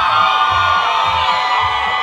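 Concert crowd cheering and screaming, many high voices at once, over a thudding bass beat.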